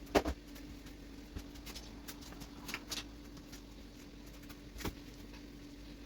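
A few scattered light knocks and clicks of household items being handled, the loudest right at the start, over a faint steady hum.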